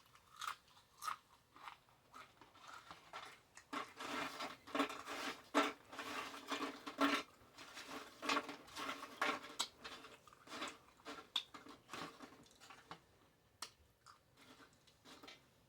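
Close-miked chewing of a bacon cheeseburger: many small crunches and mouth clicks, dense through the middle and thinning out near the end.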